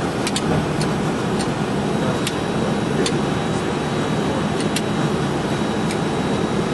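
Steady cockpit rumble of a Boeing 737 flight simulator on approach: the simulated engine and airflow noise. Scattered sharp clicks sound over it every half second to second or so.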